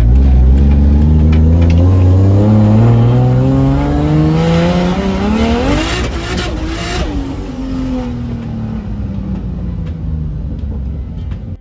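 Toyota Mark II's turbocharged 1JZ straight-six accelerating in one long pull, its pitch rising steadily for about six seconds. At the top a burst of hiss and crackles comes in, then the engine note falls away slowly as the car coasts down. This is a test drive to check a recurring misfire, and the owner afterwards believes it is fixed.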